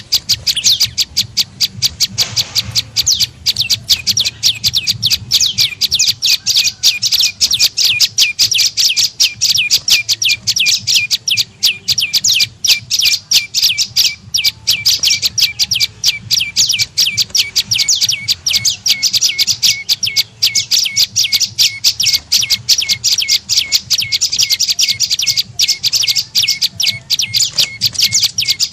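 Prenjak lumut (a small Indonesian warbler) calling in a fast, unbroken series of sharp high chirps, about five a second. This is a lure call, used to draw wild birds of the same kind.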